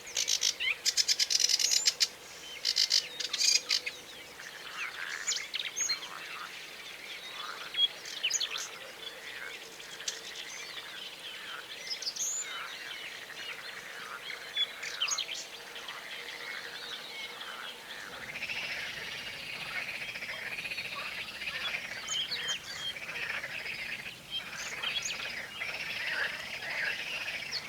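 Small birds singing and chirping together in a lakeside chorus. A loud, rapid rattling chatter dominates the first few seconds, and a low background hum of noise comes in about two-thirds of the way through.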